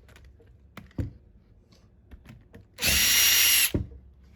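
A power drill/driver runs in one short burst of just under a second, about three seconds in, backing a screw out of the lawnmower's two-stroke engine. A few small knocks come about a second in.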